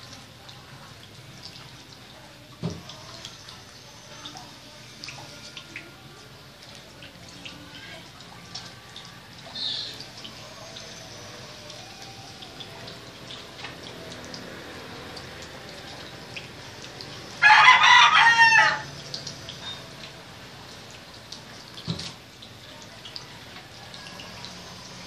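Quiet background with scattered small clicks and drips, broken about two-thirds of the way in by a single loud animal call lasting about a second and a half.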